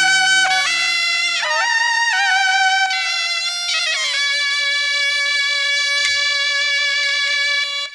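A suona (Chinese double-reed horn) playing a melody, moving between notes with slight wavering for the first four seconds, then holding one long note that cuts off just before the end.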